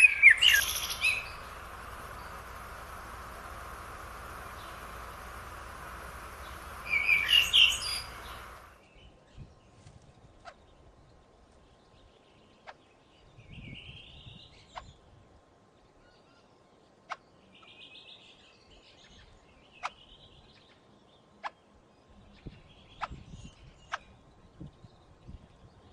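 Songbirds chirping, with louder bursts of calls near the start and again about seven seconds in, over a steady hiss. After an abrupt change about eight seconds in, it goes much quieter, with scattered short chirps and sharp single clicks.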